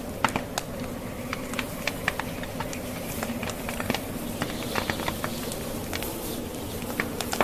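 Wood fire burning in a fireplace, logs crackling with many sharp, irregular pops over a steady low rushing noise.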